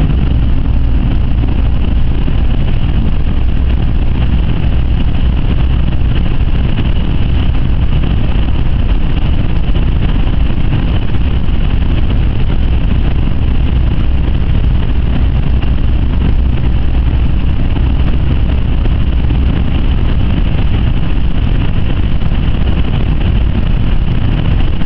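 Inside the cabin of a Jaguar XJ with the 5.0-litre supercharged V8 at high speed on a wet track: a loud, steady drone of engine, tyre and wind noise that holds level throughout.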